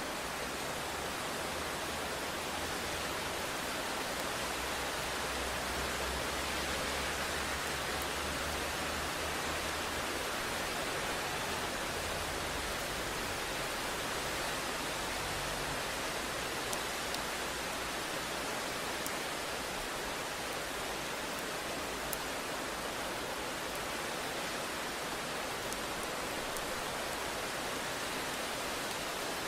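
Steady rain, an even hiss with no let-up. A low rumble swells in the first half and fades away, fitting distant thunder.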